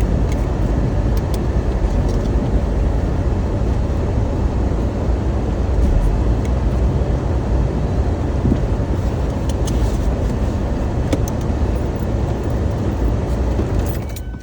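Steady rumble of a car on the move, road and engine noise with a few faint clicks.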